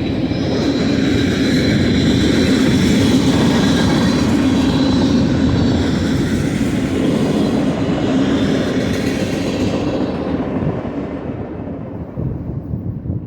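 Freight train cars rolling past on the rails, a steady rumble of wheels on track that fades from about ten seconds in as the train draws away.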